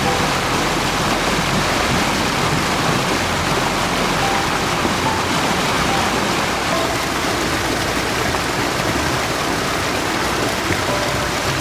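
Mountain stream water rushing, a steady, even flow.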